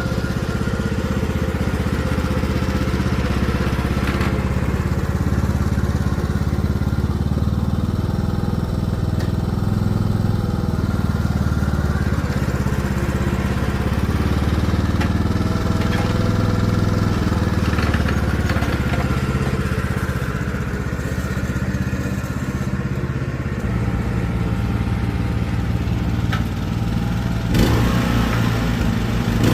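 Craftsman T1600 riding mower's engine running steadily while the tractor is under way. The engine note shifts about three-quarters of the way through, and there is a short burst of clatter near the end.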